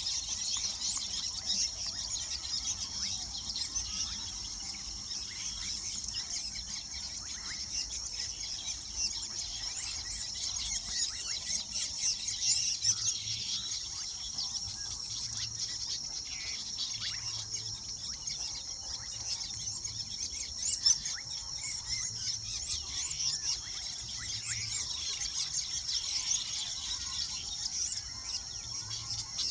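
A colony of weaver birds chattering: a dense, continuous mass of short, high chirps, with a few louder calls standing out.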